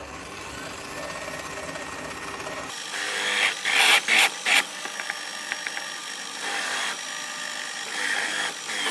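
Drill press running with a larger bit slightly countersinking the freshly drilled hole in a steel knife blade. The cutting gets loud in a few short bursts about three to four and a half seconds in, and again near the end.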